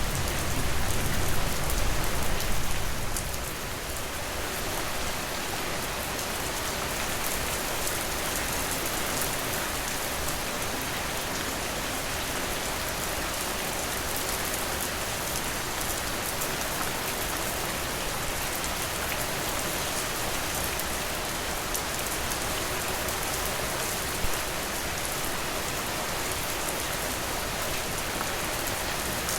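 Steady rain falling, a dense even hiss of drops. For the first three seconds or so a deeper low rumble sits under it, then drops away and the rain runs on evenly.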